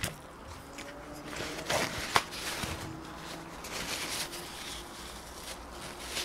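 Close-miked chewing of a mouthful of food, with wet mouth clicks and smacks; a sharp click about two seconds in is the loudest.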